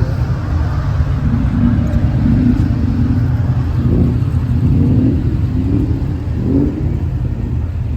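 A car engine running, with short rises in pitch about four, five and six and a half seconds in.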